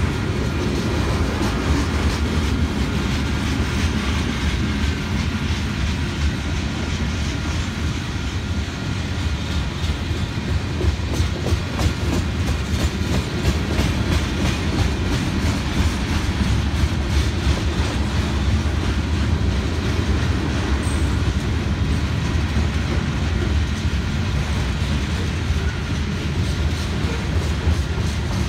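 Freight train cars rolling past: covered hoppers and tank cars with their wheels clicking over the rail joints above a steady low rumble.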